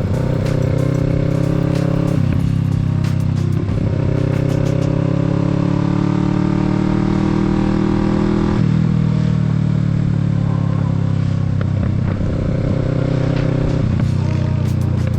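Kawasaki Z650's parallel-twin engine pulling hard under acceleration. The pitch climbs steadily, then drops sharply at an upshift about eight and a half seconds in, with earlier shifts near two and three and a half seconds. Afterwards it eases down slowly as the revs fall.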